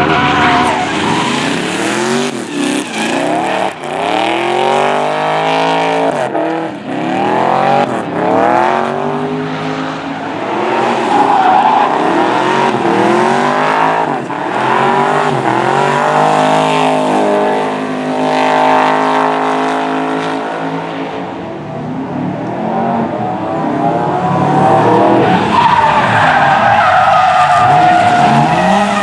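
LSX 454 V8 in a BMW E36 M3 drift car revving hard, its pitch climbing and dropping again and again as the throttle is worked through a drift, with tyres skidding and squealing.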